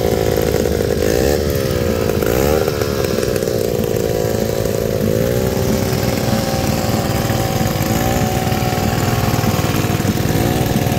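Small single-cylinder Maytag two-stroke washing-machine engine running steadily, its pitch wavering up and down a little.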